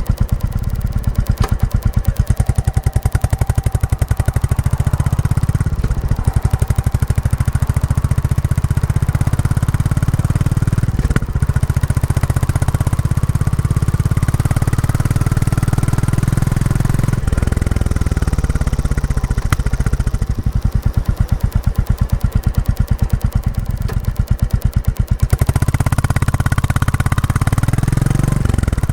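Royal Enfield Classic 350's single-cylinder engine running through its stock exhaust while being ridden, a new engine being run in; a steady, even beat of firing pulses. The beat slows for several seconds in the middle and quickens again near the end.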